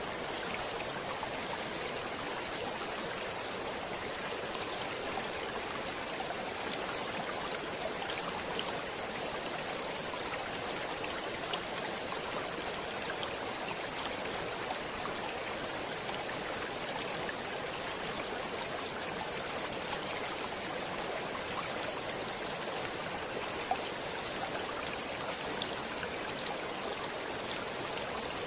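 Water flowing steadily in a stream or river, an even rushing with small splashes and droplet ticks.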